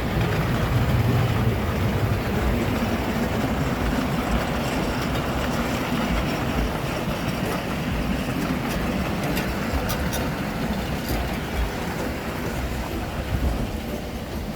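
Miniature ride-on train running along its track, heard from aboard: a steady rumble of the wheels with a few light clicks.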